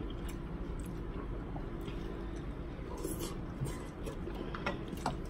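Soft chewing and wet mouth sounds of someone eating a butter-sauced boiled potato, with a few faint clicks and smacks.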